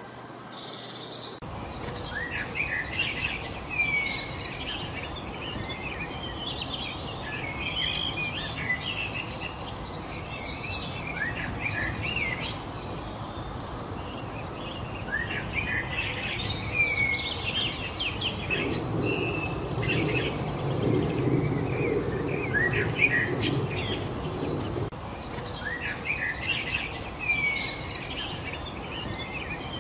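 Several songbirds chirping and singing in a dense, overlapping chorus over a steady outdoor background hiss. A low rumble swells under the birdsong for a few seconds past the middle.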